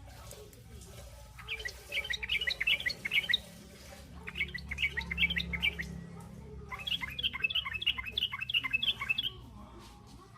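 Young yellow-vented bulbul giving its ngriwik chatter: rapid high chirps in three bursts of about two seconds each.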